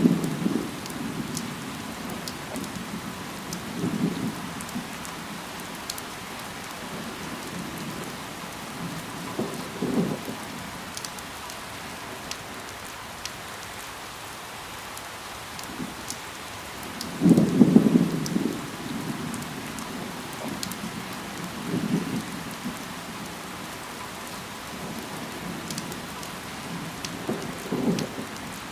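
Steady rain falling on leaves, with scattered sharp drip ticks. A short, low rumble rises out of it every four to six seconds, loudest at the start and just past the middle.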